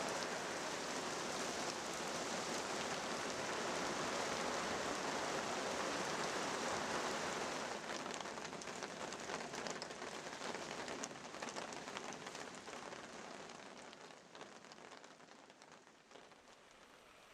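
Heavy rain falling as a steady hiss, easing after about eight seconds into scattered drops and fading away.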